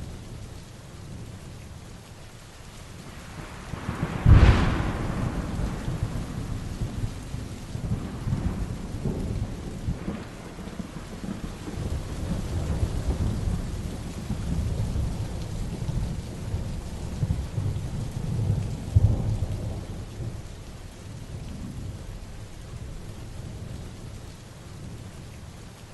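Heavy rain falling steadily, with a sharp thunderclap about four seconds in that rolls on as a long low rumble, and a second peak of thunder later on.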